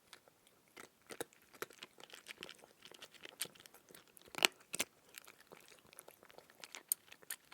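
Crunchy chewing sound effect: irregular crunches and crackles, the loudest about four and a half seconds in.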